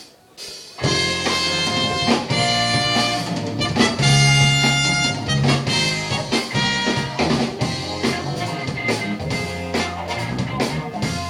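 Live band playing the instrumental introduction to a song, starting abruptly a little under a second in, with a steady bass line under it.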